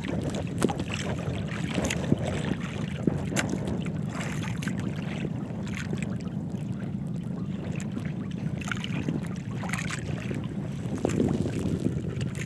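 Steady low rumble on a small fishing boat at sea, with scattered short knocks and splashes.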